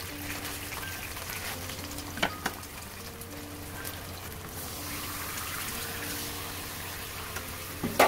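Chicken thighs frying in oil in a nonstick pan, sizzling steadily, with two light clicks of the tongs against the pan a little after two seconds in. Teriyaki sauce poured over them around the middle makes the sizzle louder and brighter, and a sharp clack comes right at the end.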